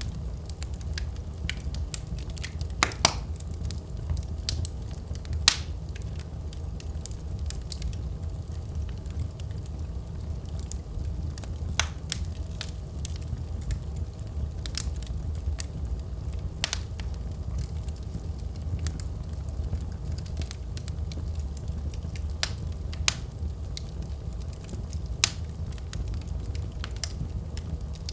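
Wood fire burning in a fireplace: a steady low rumble of flames with irregular crackles and pops, a few sharper snaps standing out.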